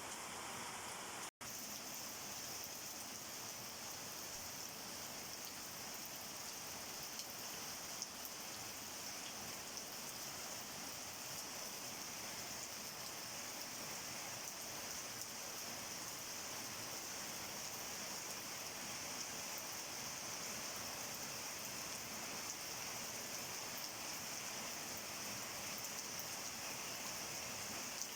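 Steady rain falling: an even hiss with scattered light drip ticks. The sound drops out for an instant about a second in.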